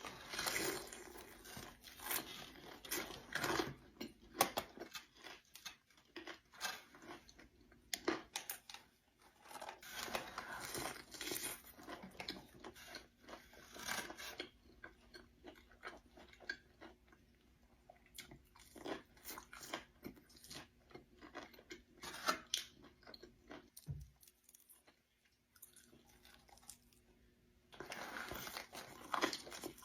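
Close-miked chewing and crunching of crispy food, in several spells of bites and chewing with quieter pauses between.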